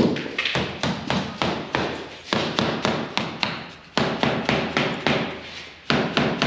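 Small hammer tapping trim into place, quick repeated blows at about four a second, in runs with short pauses between them.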